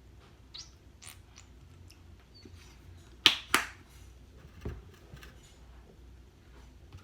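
Handling noises of a plastic shampoo bottle and cup, heard as scattered small clicks. Two sharp, loud sounds come close together about three seconds in.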